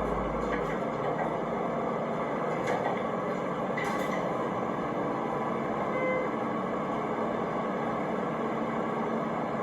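Elevator car running between floors: a steady mechanical hum and rumble in the cab, with a few faint clicks and a short beep about six seconds in.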